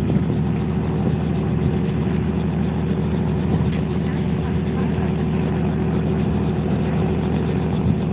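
Helicopter engine and rotor running steadily close by, a constant low drone with a fast, even rotor pulse.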